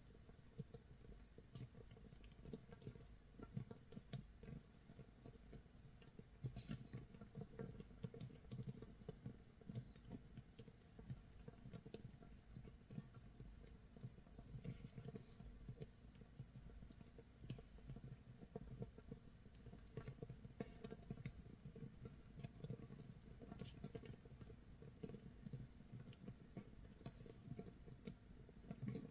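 Makgeolli starter mash (mitsul) fermenting in a jar, its surface crackling and popping continuously with many small, irregular bubble pops, a faint sound like light rain or sizzling. It is the sign of active yeast fermentation, 24 hours into the starter.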